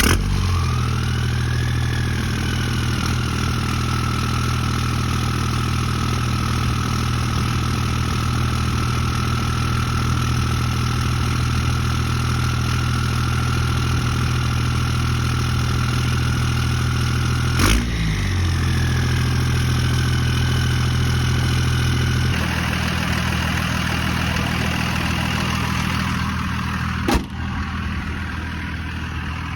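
24-valve Cummins inline-six turbodiesel catching and settling into a steady idle, with a high whistle from its big turbo that rises just after it fires and then holds steady. About 18 s in a sharp knock briefly breaks the note, and about 22 s in the idle note changes; a click near the end is followed by a slightly quieter idle.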